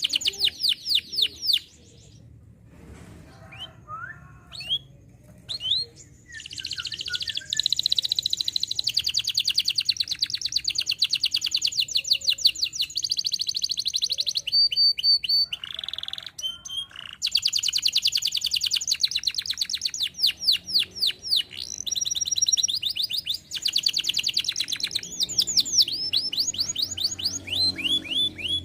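Domestic canary singing: long, fast trills and rolls of rapidly repeated high notes, with a quieter gap of a few seconds of scattered single notes near the start.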